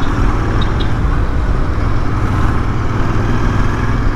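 Royal Enfield Interceptor 650's parallel-twin engine running steadily at low speed in traffic, heard from the rider's seat.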